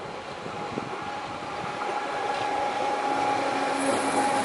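Stadler FLIRT electric multiple unit passing close by, its wheels running on the rails and growing louder as it approaches. A steady whine from its electric drive comes up strongly near the end.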